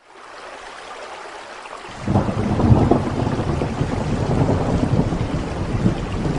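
Steady rain hiss fading in, joined about two seconds in by a low rolling rumble of thunder that carries on under the rain.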